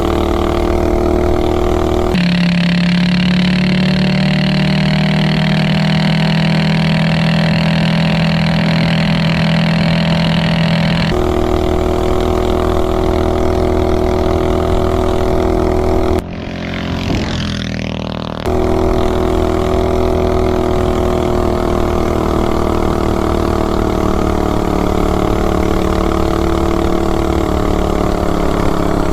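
Predator 420cc single-cylinder engine with an open header pipe, revving high and held steady through a torque converter at speed. Its tone shifts abruptly a couple of times, and about sixteen seconds in it drops briefly with a falling pitch before coming straight back up.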